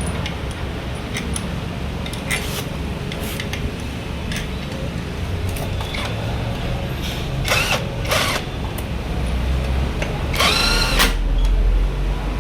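Power tool running in short bursts over workshop noise: two brief bursts about seven and a half seconds in, then a drill-like whine that rises and holds for about a second near the end.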